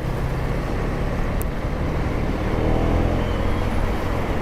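KTM Duke 250's single-cylinder engine running steadily under the rider in city traffic, with surrounding traffic noise. The engine note rises a little about two and a half seconds in.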